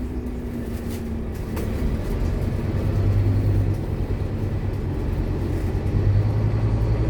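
Scania K230UB single-deck bus's diesel engine and ZF Ecomat automatic gearbox under way, a low steady drone that grows louder about three seconds in and again near six seconds.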